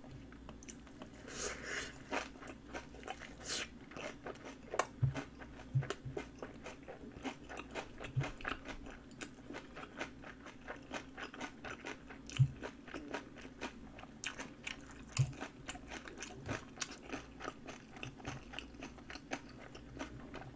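Close-up chewing of napa cabbage kimchi: a continuous run of wet crunches and small mouth clicks as the cabbage stems are bitten and chewed, with a few dull low knocks scattered through.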